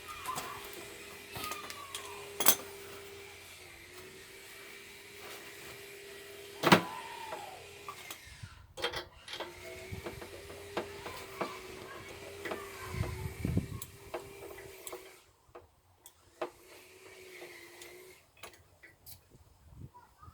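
A faint steady hum with two sharp knocks, about 2.5 and 7 seconds in, and a few lighter metallic ticks.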